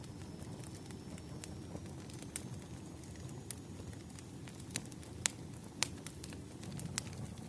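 Burning firewood crackling: a steady low rush under scattered sharp pops, with a few louder pops a little past the middle.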